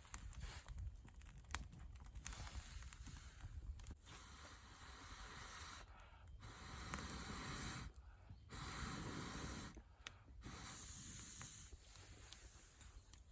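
Air blown in repeated long breaths, about a second and a half each, through a fire-blowing pipe into a young campfire to bring it up, with a few faint crackles.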